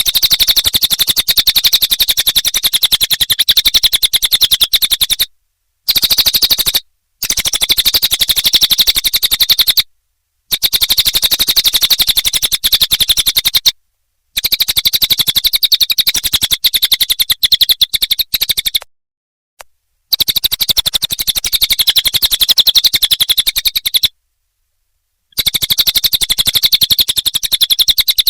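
Cililin bird song: a very fast, rattling trill of rapid high notes, delivered in loud phrases of one to five seconds with short pauses between them, about seven phrases in all.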